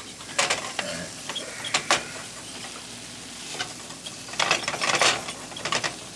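A cooking utensil scraping and tapping against a pan as rice is stirred into scrambled eggs. The scrapes come irregularly, with a busy cluster about four to five seconds in.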